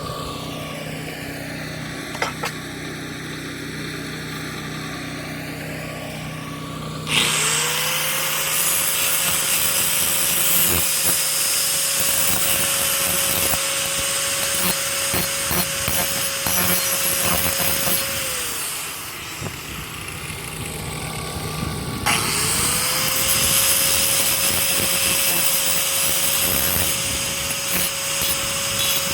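Angle grinder sharpening the cutting edge of a riding mower blade. After about seven seconds of a steady low hum, the grinder spins up and grinds for about eleven seconds, winds down, then spins up again about twenty-two seconds in and keeps grinding.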